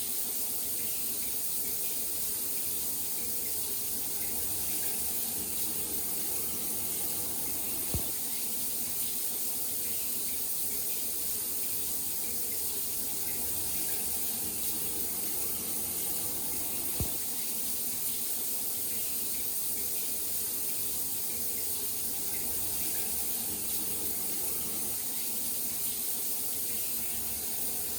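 Steady rush of falling water, an even hiss with no break, with two small clicks about eight and seventeen seconds in.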